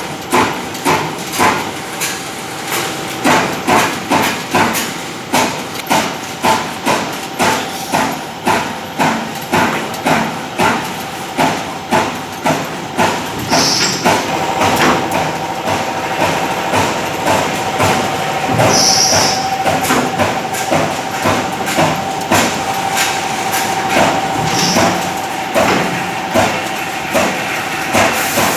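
VT 300 hydraulic CNC turret punching machine punching, a stroke about twice a second. About halfway through, the strokes come faster and a steady whine joins in, with short hisses now and then.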